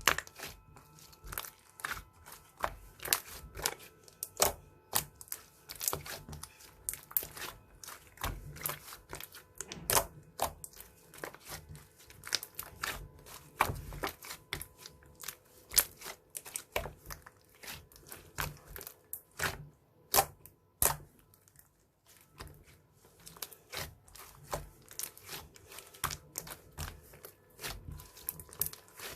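Hands squeezing and poking slime, giving an irregular run of sharp clicks and pops, a few of them loud.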